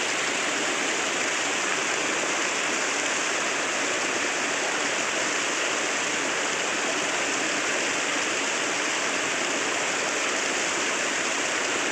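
Small waterfall on a river, its water rushing and splashing in a steady, unbroken wash.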